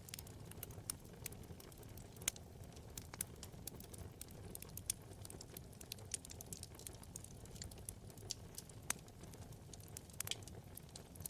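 Wood fire burning in a fireplace: a soft steady low rumble of flame with irregular crackles and pops from the burning wood, a few sharper pops standing out.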